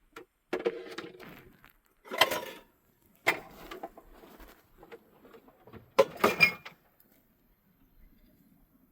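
A series of knocks and clatters, as of objects being handled and set down. They come in irregular bursts a second or so apart, with the loudest pair about six seconds in.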